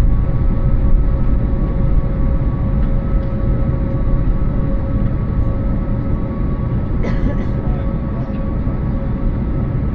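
Jet airliner's engines heard from inside the passenger cabin: a steady low rumble with a constant hum over it, and a brief click about seven seconds in.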